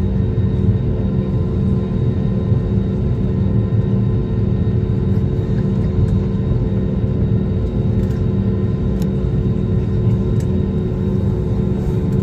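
Airliner cabin noise in flight: the steady low roar of engines and airflow heard inside the passenger cabin, with a few steady hum tones running through it.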